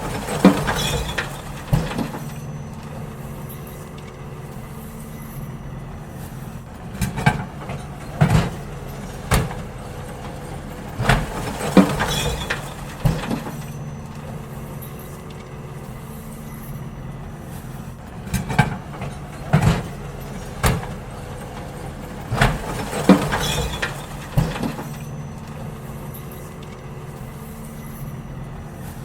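Garbage truck working at a bin pickup: its engine runs steadily underneath while bins are emptied with loud clattering bangs. The bangs come in two bunches, about a quarter of the way in and again past the middle.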